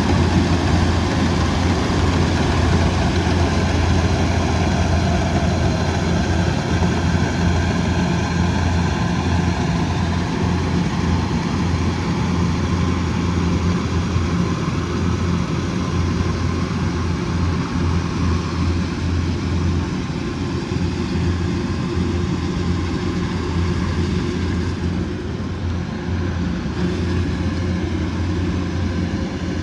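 Combine harvester's diesel engine running steadily: a continuous deep drone that grows slightly fainter over the last third.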